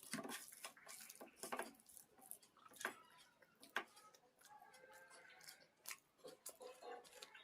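Close-up eating sounds: wet chewing and lip smacking with irregular sharp mouth clicks, faint overall.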